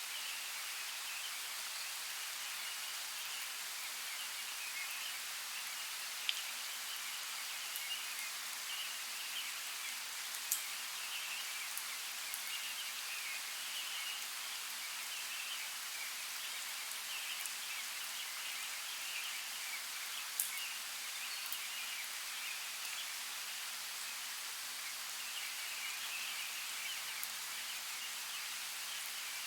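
Steady hiss of rain, with a few sharper single drop clicks now and then.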